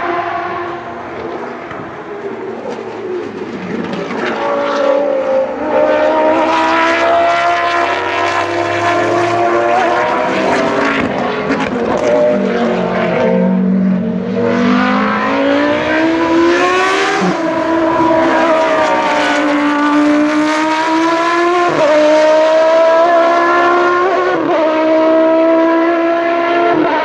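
Racing car engine running hard on track, its pitch climbing and then dropping back several times, with sharp drops as it changes gear.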